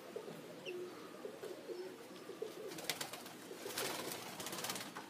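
Pigeons, young Modoc High Mountain Zipper flyers, cooing softly, with a few short rustling sounds about three and four seconds in.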